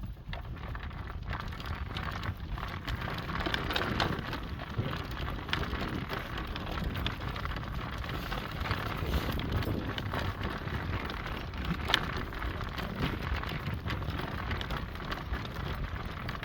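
A horse drawn in harness trotting along a gravel caliche road: a steady crunching and crackling of hooves and wheels on the sharp rocks, over a low rumble.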